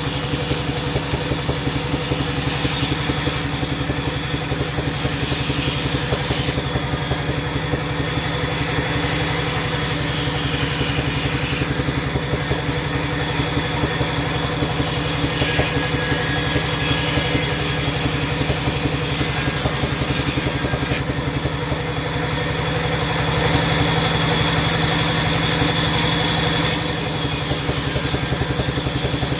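Sawmill machinery running steadily, a continuous mechanical drone with a fast low pulse.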